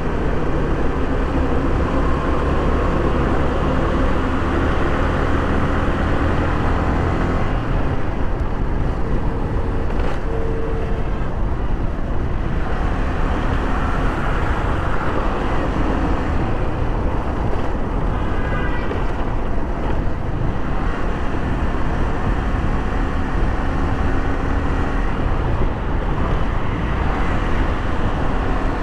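Yamaha R15 V3's 155 cc single-cylinder engine running at road speed, with steady road and traffic noise, and a short steady tone about ten seconds in.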